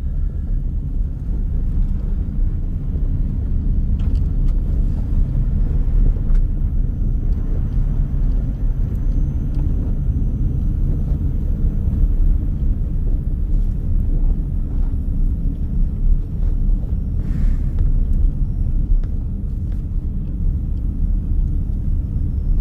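Loaded moving truck driving on an icy, snowy road: a steady low rumble of engine and road noise.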